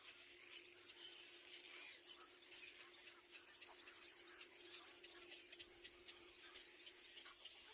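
Near silence: a faint steady hum with scattered faint ticks.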